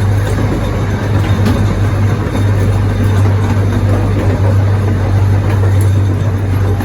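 Zoo's miniature passenger train running, heard from on board: a steady low engine drone under a rumble of the moving cars.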